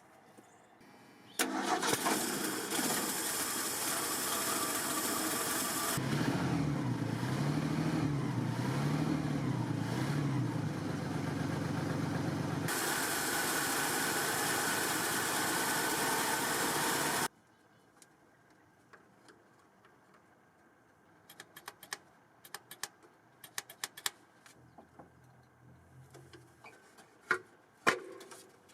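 The 1978 Ford F150 pickup's engine being started and run. It cuts in about a second and a half in, and its pitch rises and falls several times in the middle. It stops abruptly about seventeen seconds in.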